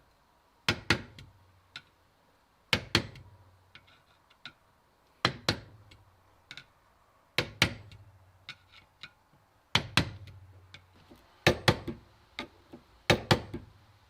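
Hammer striking a punch or screwdriver wedged in a solid chainsaw bar's rail groove to spread the rails open. The blows come mostly in quick pairs about every two seconds, each with a brief low ring, and lighter taps and clicks fall between them.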